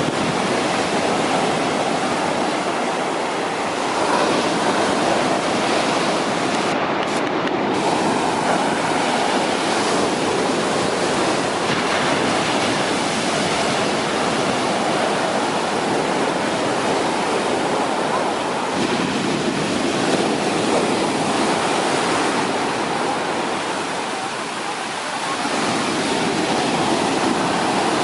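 Large sea waves breaking on a beach: a continuous rush of surf that eases for a moment about three quarters of the way through, then builds again.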